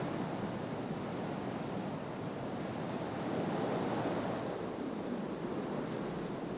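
Wind blowing in a steady rush that swells a little about three seconds in.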